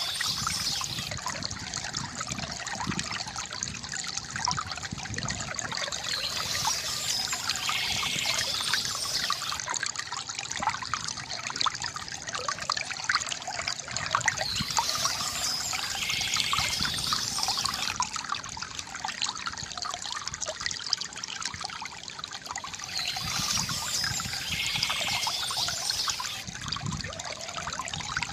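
Water trickling and splashing steadily from a bamboo fountain, with birds chirping now and then above it.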